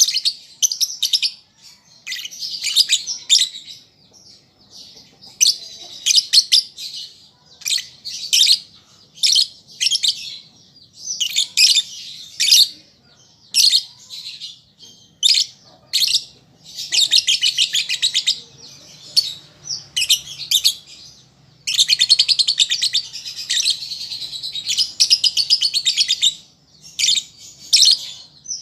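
Lovebird chirping in rapid bursts of high, shrill chatter, with short pauses between phrases and longer unbroken runs of chatter near the middle and about three quarters of the way in.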